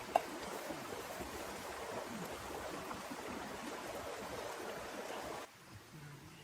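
Steady rain falling, with a single sharp tap near the start; the rain cuts off abruptly about five and a half seconds in, leaving a much quieter background.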